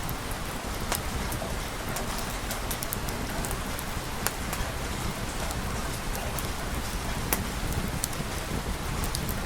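Steady rain falling, a constant even hiss, with scattered sharp ticks of drops breaking through it.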